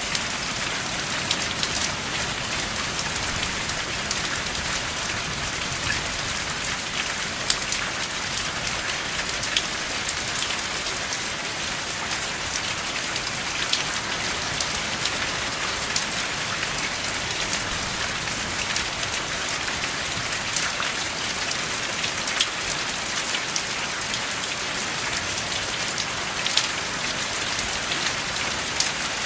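Steady rain falling without thunder, an even hiss with single drops ticking sharply here and there.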